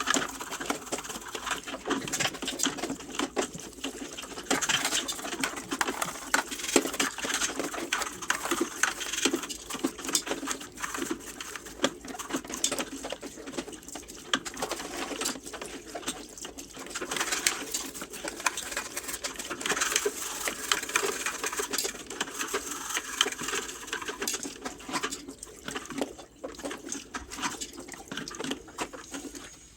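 A toothbrush scrubbing a washing machine's filter: rapid, irregular scratching strokes that thin out a little near the end.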